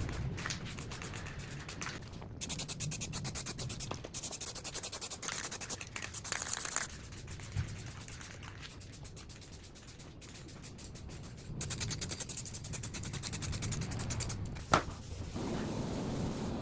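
Fast, evenly repeated abrasive scraping strokes on a workpiece, coming in runs of a few seconds with short pauses between. A single sharp knock sounds near the end.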